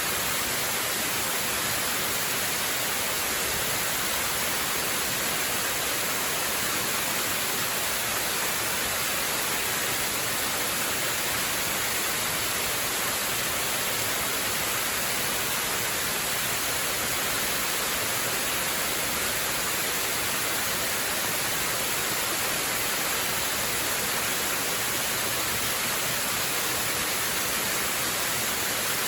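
Waterfall: a steady, unbroken rush of falling water, even and hiss-like, with no change in level.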